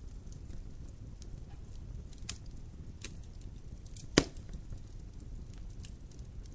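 Wood fire in a fireplace crackling, with scattered sharp pops over a low steady rumble. One loud pop a little past the middle.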